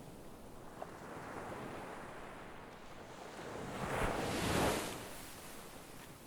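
Sea waves washing onto the shore, with one wave breaking louder about four seconds in and then washing away.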